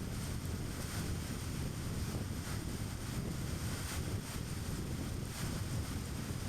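Car driving at a steady speed: a constant low rumble of tyres and engine with wind noise over it.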